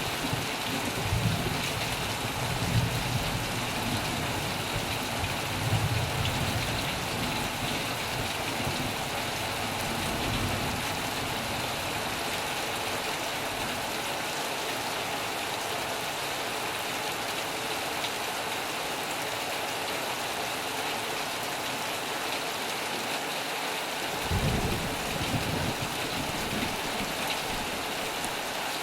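Heavy rain pouring steadily on a metal roof. Low rumbles of thunder swell in the first few seconds and again about twenty-five seconds in.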